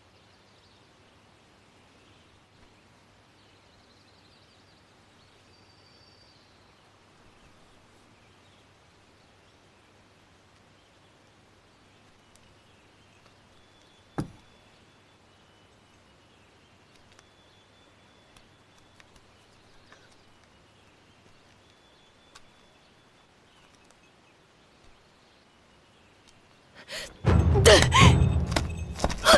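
Very quiet room tone with faint small movements. About halfway through, a single sharp knock as a candlestick is set down on a wooden stand. Near the end a sudden loud burst of dramatic sound effect and music sets in.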